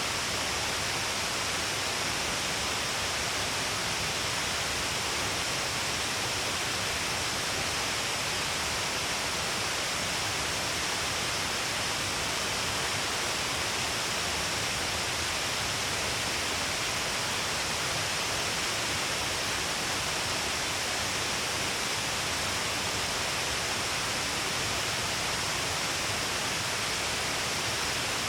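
Steady rush of Shiraito Falls, many streams of water pouring down along a wide cliff face. An even, unbroken hiss, strongest in the high range, with no single events standing out.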